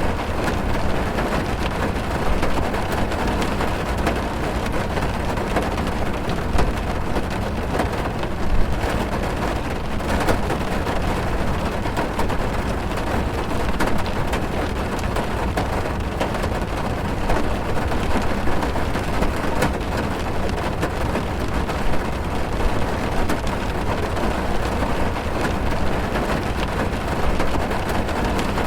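Heavy rain drumming on a car's roof and windows, heard from inside the car: a steady dense hiss with a low rumble underneath and scattered sharp ticks of individual drops.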